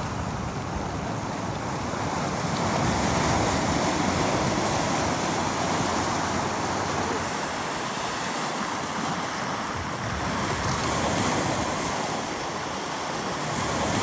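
Small waves washing on a beach, with wind on the microphone; the wash swells and eases slowly every few seconds.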